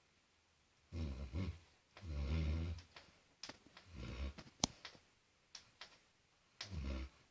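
Dog snoring in its sleep: four low, rasping snores a second or two apart. Between them come a few short sharp clicks, the loudest about halfway through.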